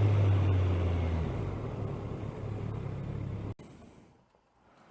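Kawasaki ER-6n's parallel-twin engine running with wind noise through a helmet-mounted camera, the engine note stepping down and fading, then cut off abruptly about three and a half seconds in, leaving near silence.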